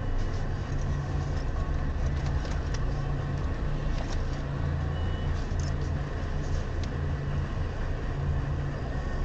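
Car driving, heard from a dashcam inside the car: a steady low engine and road rumble with a few faint ticks.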